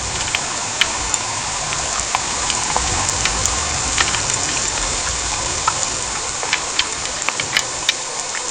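Heavy rain pouring down steadily, with sharp drops ticking irregularly and a low rumble now and then.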